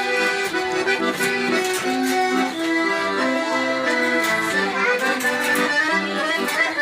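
Accordion (sanfona) playing a tune: a moving melody line over sustained chord tones, steady throughout.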